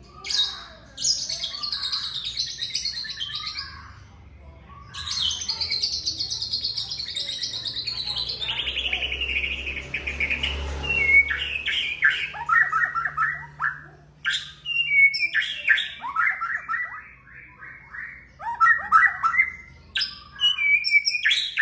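White-rumped shama singing: two long, rapid trills that slide slowly down in pitch, then a run of short, repeated whistled phrases.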